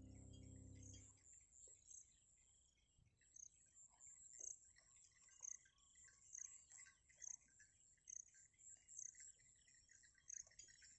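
A held musical chord ends about a second in. Faint outdoor ambience of small bird chirps and insect calls follows.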